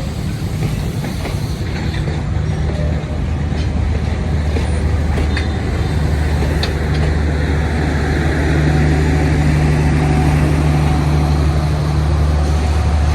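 Diesel locomotive of a passenger train running with a steady low engine hum that grows louder about eight seconds in, with a few faint clicks and short squeals.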